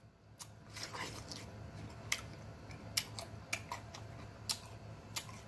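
Close-miked chewing of firm cantaloupe: irregular wet clicks and smacks of the mouth, about two a second, over a faint low hum.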